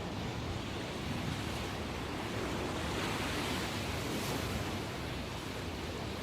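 Ocean waves breaking and washing ashore in a steady rush, the surf still heavy after a typhoon, swelling a little about halfway through. Some wind on the microphone.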